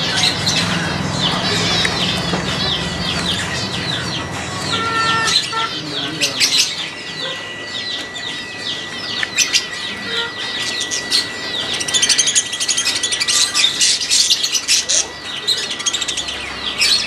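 Many small birds chirping at once, a dense stream of rapid, short, overlapping calls, with a steady thin high tone underneath and a few sharp clicks.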